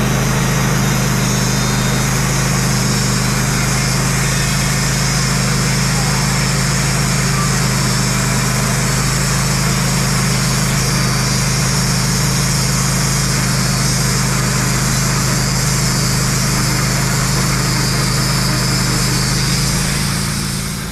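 Wood-Mizer portable band sawmill running steadily under load, its engine and band blade sawing through a pine log. The sound dies away quickly near the end.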